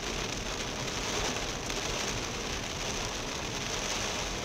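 Heavy rain falling steadily on a moving car, heard from inside the cabin, mixed with the hiss of tyres on the wet road.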